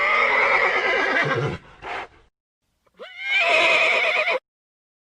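Horse whinnying twice, each a wavering call about a second and a half long, with a short breathy sound between them.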